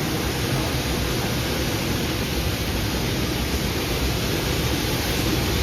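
Steady rushing noise with a low rumble from riding aboard a train car, with no distinct knocks or whistles.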